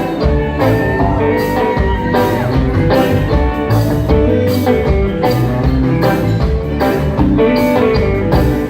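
Live band playing an instrumental stretch of a song, guitar over a steady drum beat.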